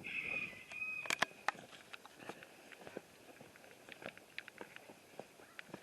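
Backyard chickens: a short hoarse call in the first second, then scattered light ticks and scratches.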